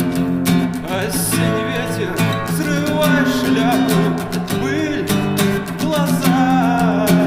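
Acoustic guitar strummed in a steady rhythm, with a voice singing a melody over it from about a second in.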